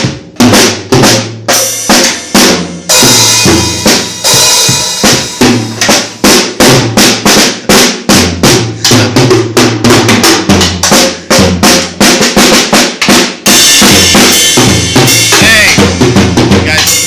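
Drum kit played in a steady, quick beat with bass drum, snare and cymbal hits, over a song with a bass line.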